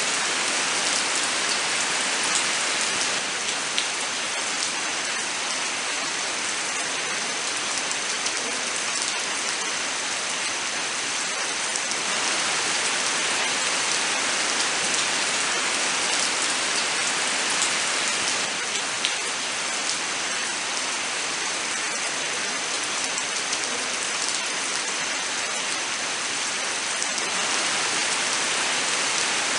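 Steady rain falling, an even hiss with occasional distinct drops ticking through it.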